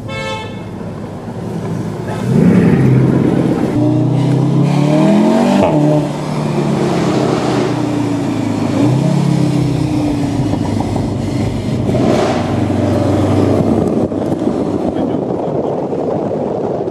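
Car engines accelerating past one after another. The engine note climbs in pitch about two seconds in and again near nine seconds, with another loud pass around twelve seconds.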